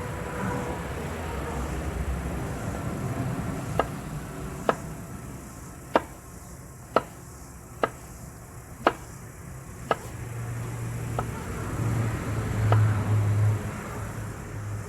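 Knife chopping on a cutting board: single sharp strokes about a second apart, a few of them irregularly spaced. A low rumble swells near the end.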